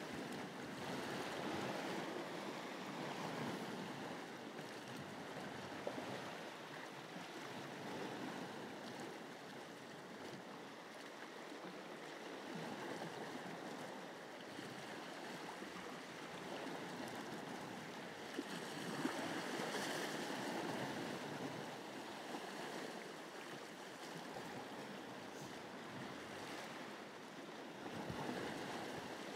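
Sea waves washing against shore rocks, a steady wash that swells louder twice and eases off.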